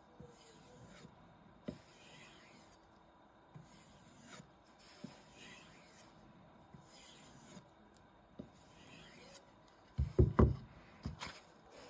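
Knife blade being stropped on a leather strop, with faint rubbing swishes about every two seconds. About ten seconds in there is a short cluster of loud knocks.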